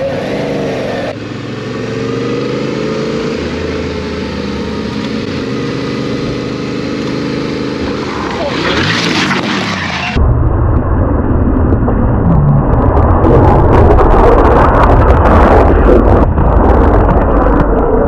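Yamaha Ténéré 700 parallel-twin engine running under way, its pitch rising and falling through gear changes. From about ten seconds in, a loud low wind rumble on the microphone takes over as the motorcycle rides at speed.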